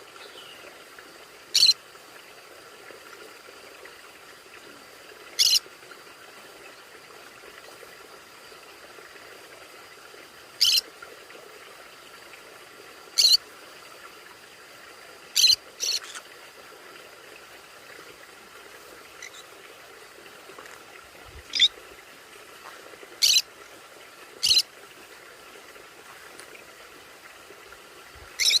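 A conure giving short, sharp, high-pitched calls, about ten single calls at irregular intervals, over a faint steady hiss.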